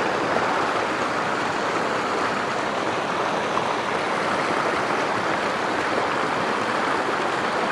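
Mountain creek water rushing and splashing over rocks, a steady, even sound.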